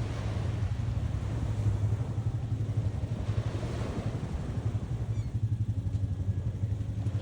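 Wind buffeting the microphone at the beach: a steady low rumble with a choppy, fluttering loudness, over a haze of surf.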